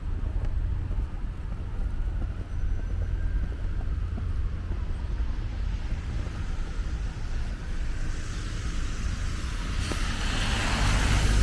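Street traffic with a steady low rumble, and near the end a car passing close with a swelling hiss of tyres.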